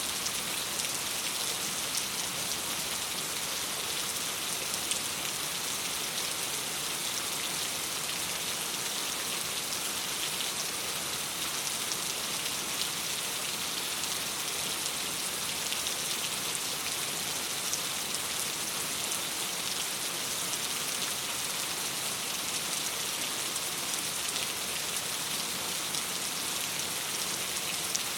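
Steady rain on a window: an even, unbroken hiss with fine ticks of individual drops.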